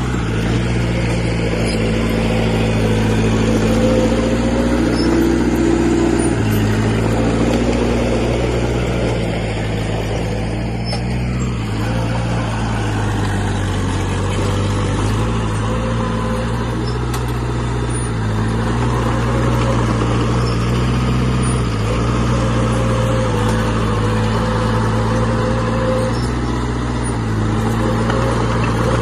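Diesel engine of heavy earthmoving machinery running steadily. Its note shifts up and down a few times as the load or throttle changes.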